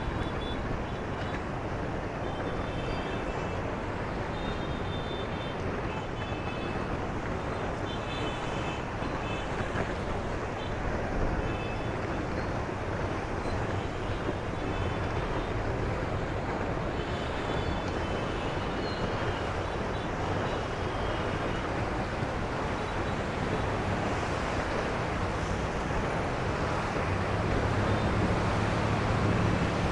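Steady outdoor noise of wind on the microphone over the low hum of engines. The engine hum grows stronger near the end.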